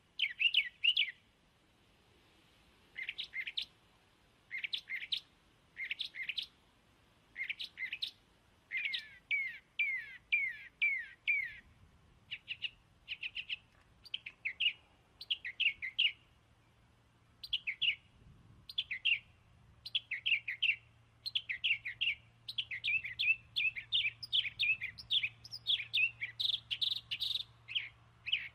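A small bird chirping in runs of short, quickly falling chirps, with pauses between the runs and the chirps coming more thickly toward the end.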